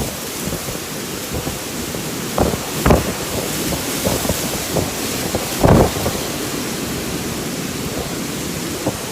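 Storm wind blowing hard with rain, a steady rushing hiss broken by a few short thumps, the loudest about six seconds in.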